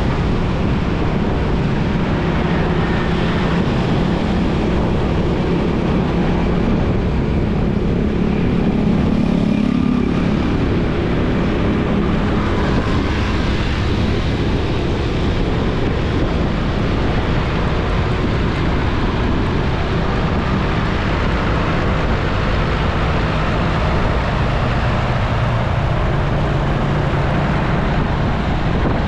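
Motorcycle riding at road speed: steady engine hum under a constant rush of wind and road noise.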